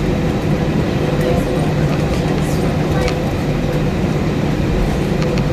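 Steady cabin noise inside an Airbus A320 on the ground after landing: a constant low rumble and hum from the engines and air system as the plane taxis in.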